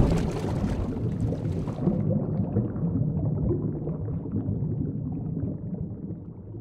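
Underwater ambience sound effect: a low rumble with bubbling, loudest with a burst of bubbles at the start. The hiss drops away about two seconds in, and the rumble fades out toward the end.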